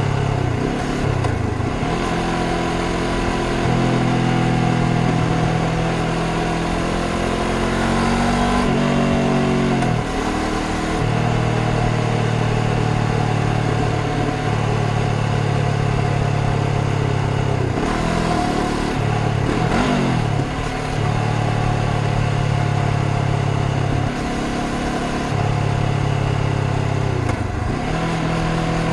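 A 2025 Honda CBR500R's parallel-twin engine running under load while riding. The engine note holds steady for stretches, then drops and climbs again several times as the rider eases off and changes gear.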